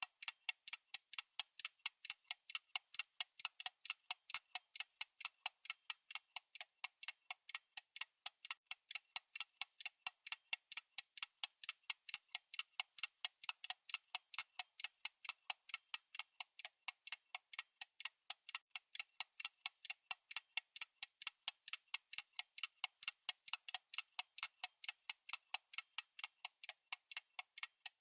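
Clock-style ticking sound effect of a countdown timer: sharp, even ticks, several a second, keeping a steady rhythm.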